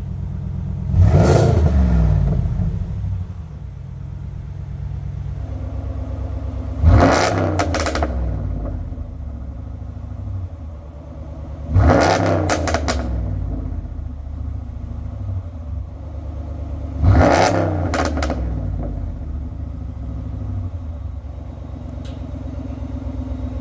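Ram 1500's 5.7 HEMI V8 through an aftermarket active exhaust, idling and blipped four times, about every five seconds; each rev climbs quickly and falls back to idle with a few short cracks on the way down.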